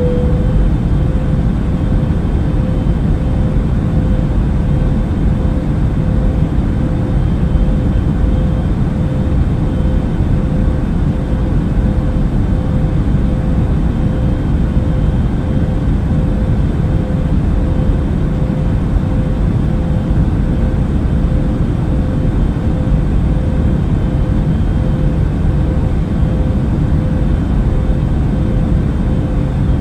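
Steady drone of an airplane in flight: a deep, even rumble of engines and rushing air, with a hum held on one pitch throughout.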